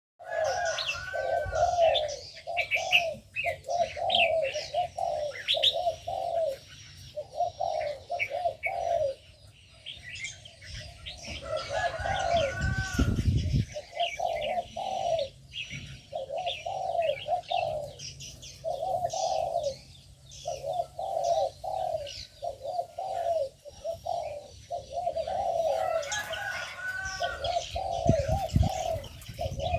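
Several doves cooing over and over in an aviary, their short arching coos overlapping almost without pause, with smaller birds chirping and twittering higher up. A low rumble comes in briefly about halfway through and again near the end.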